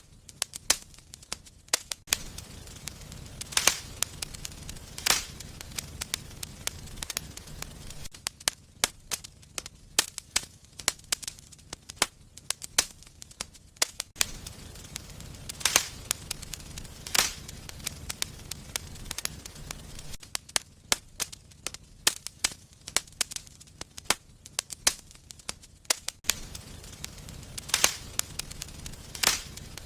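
Wood fire in a fireplace crackling, with constant small snaps and, every few seconds, a sharp loud pop, over a low steady rumble of burning.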